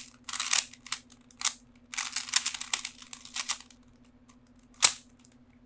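Plastic Rubik's Cube being twisted fast, quick bursts of clicking and rattling as its layers turn, at the end of a solve. Near the end comes one single sharp snap, the loudest sound.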